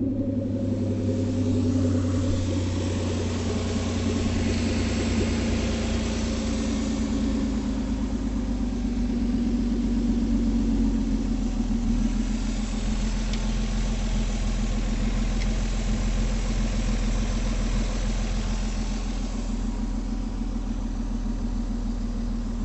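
2003 Ford Escape engine idling steadily, left running so the transmission fluid can be checked.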